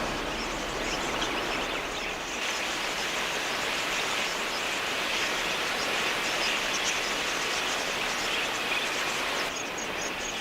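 A large flock of budgerigars chattering, a dense, steady twittering din of many small birds at once.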